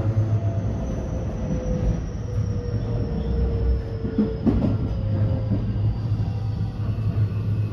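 Inside a JR West 321 series electric train car: the Toshiba IGBT VVVF inverter whine slowly falling in pitch over wheel and rail rumble, the sign of the train slowing under braking. A few sharp knocks come about four seconds in.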